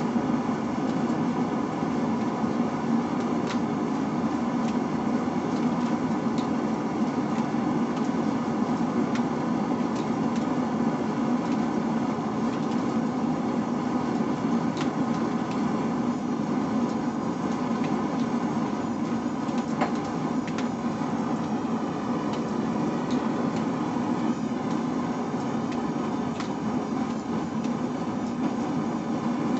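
Forge running with a steady, even noise that holds its level throughout, with a few faint isolated clicks and no hammer blows.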